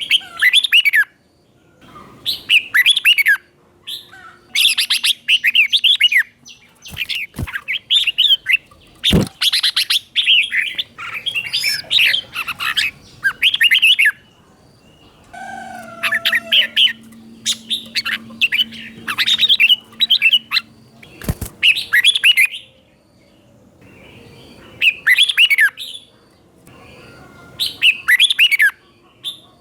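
Red-whiskered bulbul singing its 'doubled' song: short, quick phrases of warbled notes, one after another with brief pauses between them. A few sharp clicks cut in.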